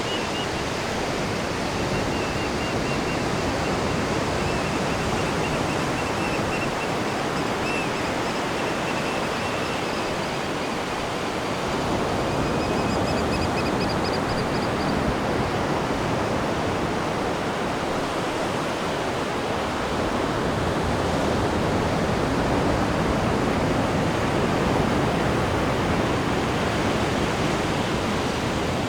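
Atlantic ocean surf breaking and washing at the shore: a continuous rushing of waves that swells a little about twelve seconds in and again past the twenty-second mark.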